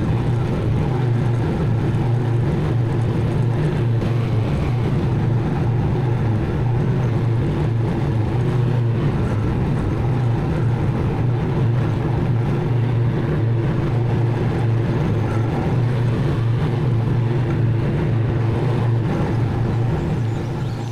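Zero-turn mower engine running steadily at full throttle with a constant low drone, starting to die away right at the end.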